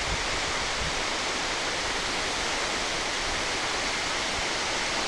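A steady, even rushing noise with no change in level.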